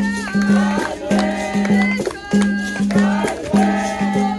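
Capoeira roda music: berimbau notes with the caxixi rattle beating a steady rhythm, under group singing.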